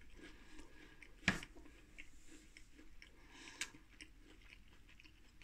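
Faint chewing of battered dill pickle fries: soft, wet mouth sounds rather than a crunch, because the oven-baked batter is not crispy. A sharp click about a second in, and a smaller one later.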